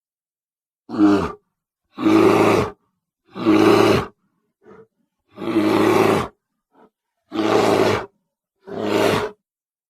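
Custom creature sound effects for a gorilla-giraffe hybrid monster: six separate roars, each under a second long, with silent gaps between them and two brief faint sounds in two of the gaps.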